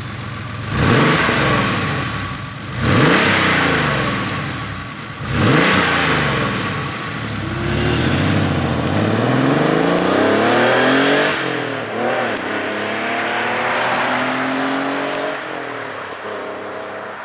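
Porsche 964 Carrera's air-cooled flat-six through a Fabspeed single-outlet Maxflo muffler: three quick throttle blips, each rising and falling sharply, then the car pulls away, the pitch climbing, dropping at a gear change about halfway through, climbing again and settling to a steady cruise.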